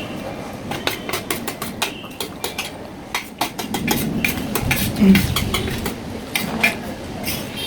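Cutlery clinking repeatedly against a plate as chowmein is eaten, in many short, sharp clicks.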